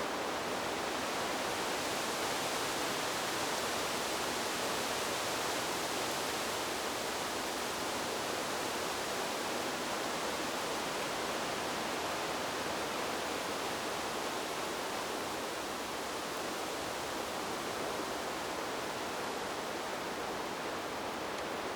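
Wind rushing through trees as a steady, even hiss with no gusts or breaks. It eases very slightly in the second half.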